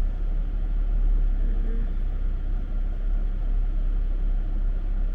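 Steady low rumble of a car interior, engine and road noise, with a faint voice briefly about a second and a half in.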